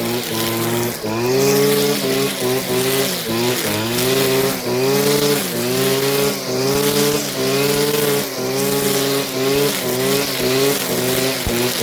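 Small petrol engine of a grass-cutting machine running as it cuts overgrown grass, its pitch sagging and recovering about once a second.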